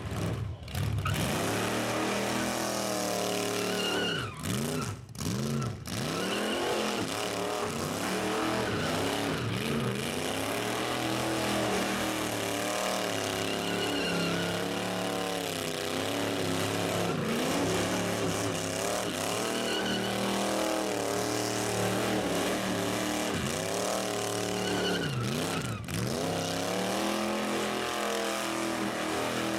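Rat rod engine revving hard, over and over, during a burnout, its pitch rising and falling. The throttle drops off briefly a few times, early and again near the end.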